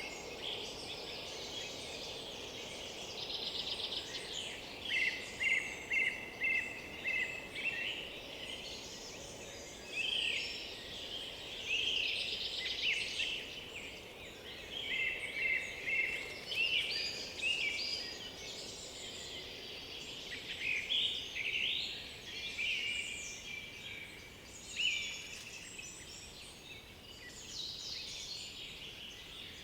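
Several songbirds singing at once, their varied songs overlapping, with one bird repeating a short phrase about twice a second near the start. Under them runs a steady faint background hiss.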